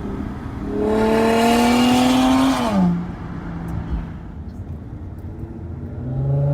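Nissan G35's 3.5-litre V6 through a muffler-deleted Y-pipe exhaust, revving up and holding high for about two seconds before dropping back, then starting to rev again near the end.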